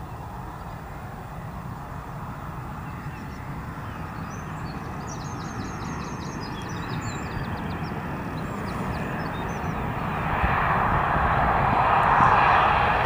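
Airbus A330-200 jet airliner coming in to land, the rushing engine and air noise growing steadily louder as it nears and loudest over the last few seconds.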